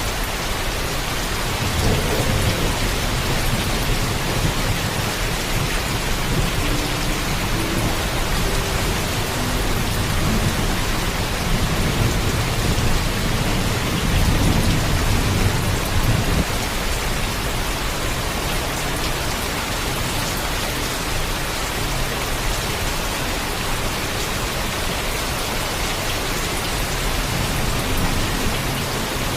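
Steady heavy rain with a low rumble of thunder rolling in about two seconds in, building to its strongest about halfway through and fading soon after.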